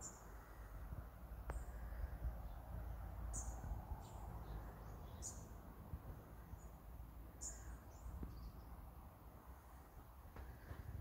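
Small birds chirping in short, high calls every second or two, over a steady low rumble.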